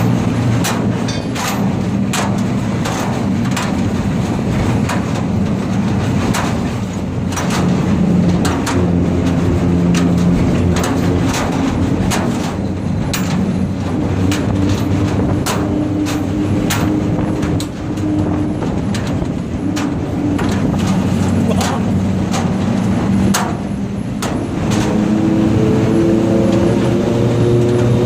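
Hino truck's diesel engine running steadily, with frequent sharp clicks and knocks over it; near the end the engine pitch rises as it speeds up.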